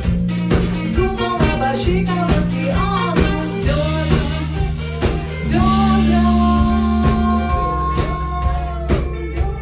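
Live pop-rock band playing: drum kit keeping a steady beat under bass, with a winding melody line that gives way to long held notes about halfway through.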